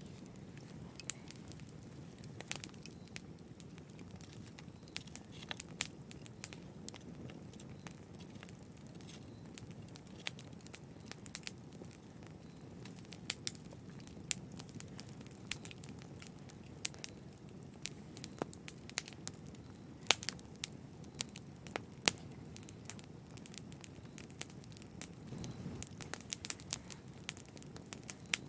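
Wood fire crackling: irregular sharp pops and snaps over a low, steady rumble of burning, with a few louder pops a little past the middle.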